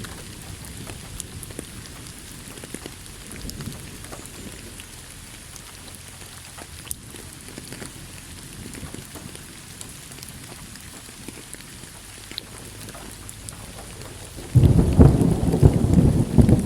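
Steady rain falling with scattered drop ticks, then a sudden loud crack and rumble of thunder near the end.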